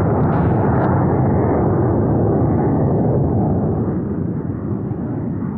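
Aircraft flying low past at an air show: a loud engine roar that holds for about three seconds, then slowly fades.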